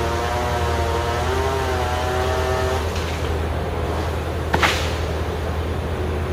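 Tree-cutting machinery running: a steady low engine drone throughout, with a higher, wavering motor whine over it that stops about three seconds in. A single sharp crack comes about a second and a half later.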